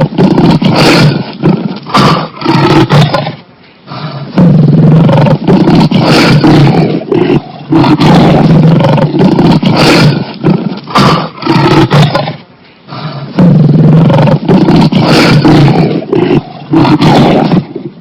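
A large wild mammal roaring loudly in repeated bouts of a few seconds each, with short breaks between them.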